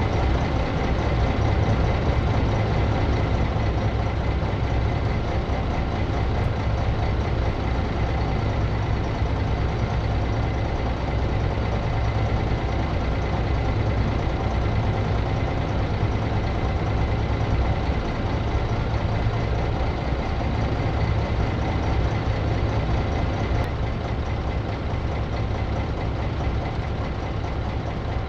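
Blue Bird bus engine running steadily at an even pitch, with a strong low hum and no change in speed.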